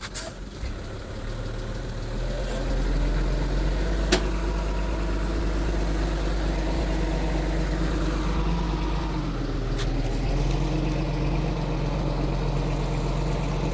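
Mitsubishi G2 bulldozer's diesel engine running steadily, getting louder about two seconds in as it takes up load, with a few brief sharp knocks.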